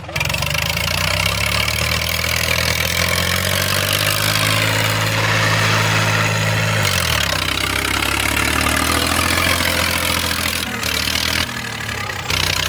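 Eicher 333 tractor's diesel engine running hard. Its engine speed drops about seven seconds in and then holds steady.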